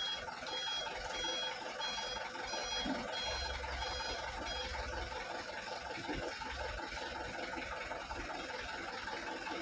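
A truck's reversing beeper sounding a high repeated beep about twice a second, stopping about five seconds in, over the low running of a truck engine.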